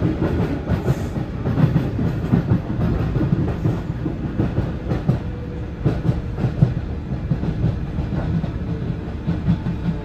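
Athens Metro Line 3 train running on the surface section, heard from inside the car: a steady low rumble with irregular clatter of the wheels on the track.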